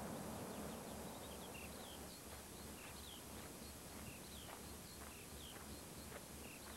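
Faint small-bird chirping: short high falling notes, about two a second, over a quiet outdoor hiss.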